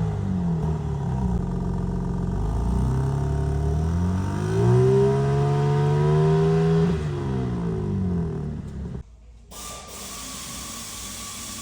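BMW M3 Competition Touring's twin-turbo inline-six revving through an AC Schnitzer rear silencer, the revs rising, holding and falling back. About nine seconds in it cuts off suddenly, leaving a quieter steady whine and hiss.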